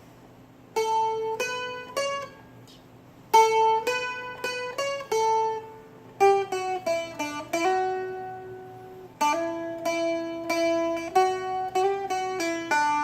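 Seagull Merlin M4, a four-string fretted dulcimer, picked slowly as a single-note melody in short phrases over steady ringing drone strings. Some notes change without a new pluck, through hammer-ons and slides.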